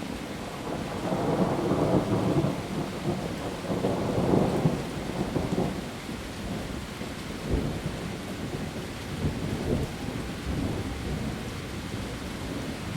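Heavy rain falling on leaves, with a low rumble that swells over the first few seconds and then eases, and a few dull thuds later on.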